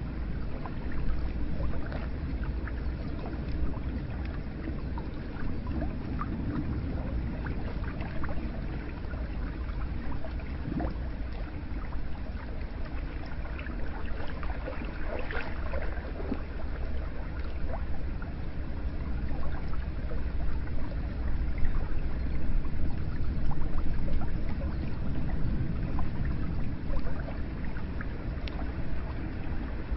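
Hot spring water flowing and splashing steadily, with many small drips and gurgles scattered through it.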